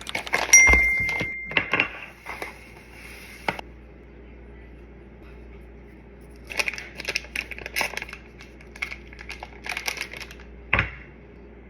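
Kitchen preparation noises: a heavy knock with a short ringing tone near the start, then bursts of quick tapping, rustling and clattering of utensils and packaging, and one sharp knock near the end.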